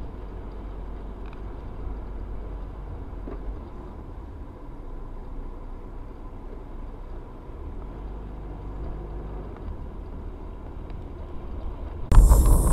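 Steady low engine and road rumble of a moving vehicle, heard through a dashcam's small microphone, with a faint steady tone over it. Shortly before the end it jumps to a much louder, brighter noise.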